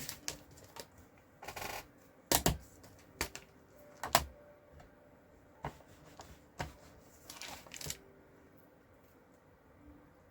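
Card-stamping supplies being handled on a craft desk: a series of sharp plastic clicks and knocks, one of them doubled, with two brief rustles, stopping about eight seconds in.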